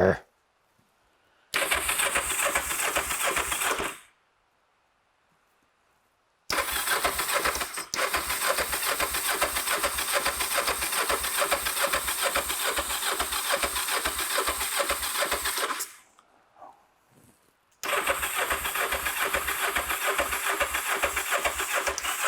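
Electric starter cranking a Kawasaki GPZ500S parallel-twin engine in three bursts: a short one, a long one of about nine seconds, and a third near the end, with a quick even chug and the engine not catching. It is a long-stored bike on full choke that the owner then reckons is flooded.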